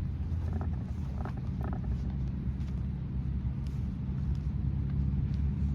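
A steady low engine-like rumble, with a few faint short sounds about a second in.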